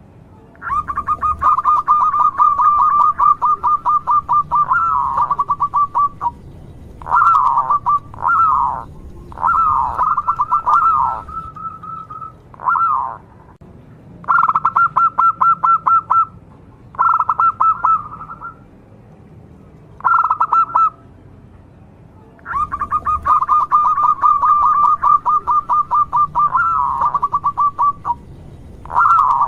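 Local zebra dove (perkutut) singing: long runs of rapid, evenly pulsed notes, one starting about a second in and another about two-thirds of the way through, with short separate coos in between.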